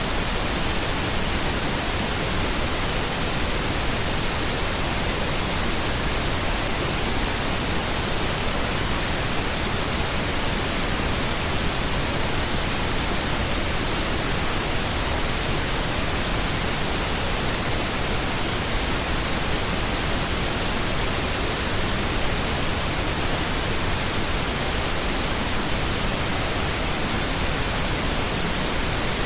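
Steady synthetic pink noise: an even, unbroken hiss spread across all pitches, with more weight in the lows than white noise.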